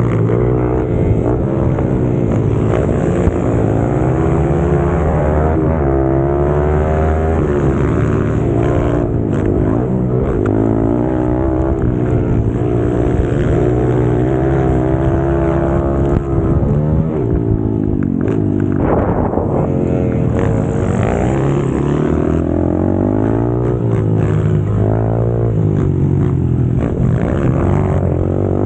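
Pit bike engine at race pace, revving hard, its pitch climbing and dropping again and again as the bike accelerates, shifts and brakes around the track.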